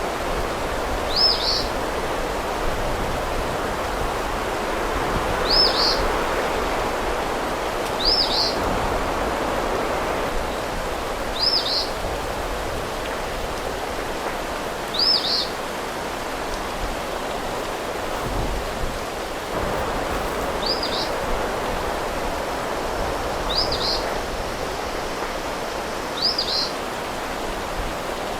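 A bird repeats one short, high chirp about every three seconds, eight times in all, over a steady outdoor hiss.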